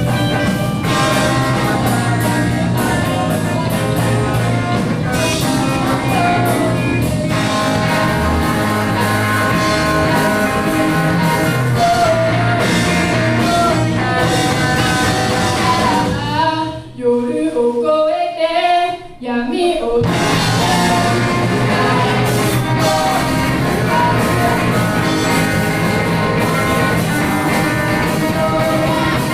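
Rock band playing with singing, electric guitar and drum kit. From about 16.5 s to 20 s the band drops out and only a single wavering melody line carries on before the full band comes back in.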